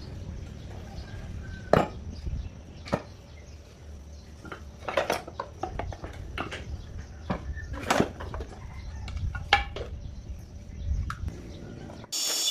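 Irregular metal clinks and knocks of small parts and tools being handled, over a low rumble. A loud steady hiss starts just before the end.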